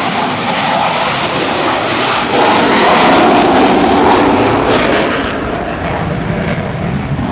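Fixed-wing aircraft engine noise as a plane passes: it swells sharply about two seconds in, stays loudest for about three seconds, then fades.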